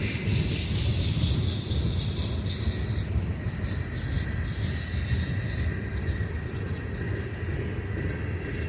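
Freight train cars rolling past, a steady low rumble.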